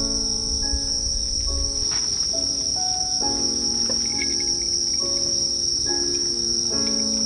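Insects trilling in one steady, high, unbroken note, with soft background music of held chords changing every second or so beneath it.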